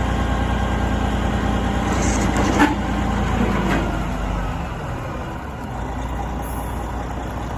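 Heavy diesel engine of a 2011 Western Star 6900XD dump truck running steadily, with a brief hiss and a sharp click a little over two seconds in. The engine's low rumble eases off somewhat about halfway through.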